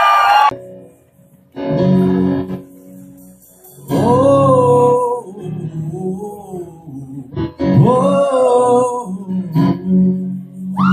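Live band music with guitar and keyboard over steady bass notes, briefly dropping out about a second in, with a melodic line swelling twice, around four and eight seconds in.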